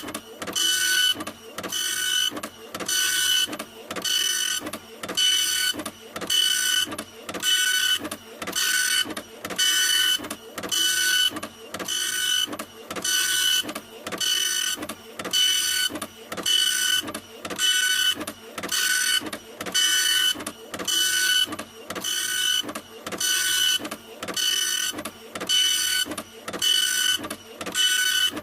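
Printer running continuously, its mechanism whirring in a steady, even rhythm of short passes, about three every two seconds, each pass carrying a high tone.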